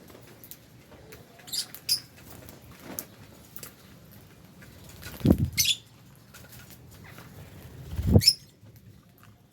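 Lovebirds giving short, high, squeaky chirps here and there, with two louder moments about five and eight seconds in where a low thump comes together with a chirp.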